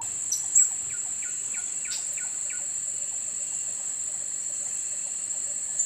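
A steady, high-pitched insect drone with a quick series of short bird chirps over it, some falling in pitch.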